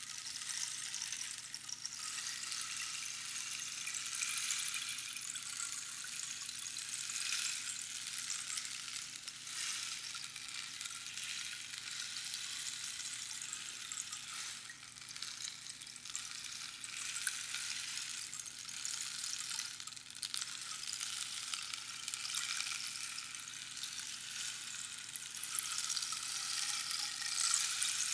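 Rainstick being turned, its small pebbles or beans trickling down past the pins inside the hollow tube in a dense, rain-like rustling hiss. The rustle swells and eases every few seconds as the stick is tipped.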